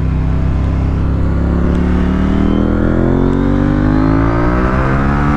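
KTM 890 Duke R's parallel-twin engine accelerating hard in second gear, its revs rising steadily under full pull, with wind rush on the microphone.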